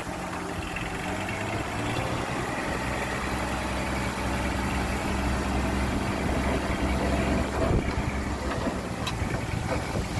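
Heavy construction machine's diesel engine running steadily with a low hum, fading out near the end.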